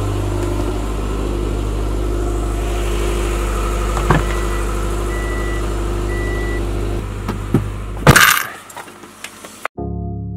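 A car engine running steadily, with three short high electronic chimes midway through and one loud sudden knock a little before the end.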